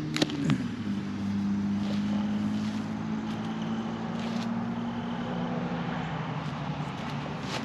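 An engine running steadily with a low, even drone, its pitch dropping briefly about half a second in, with a few sharp clicks over it.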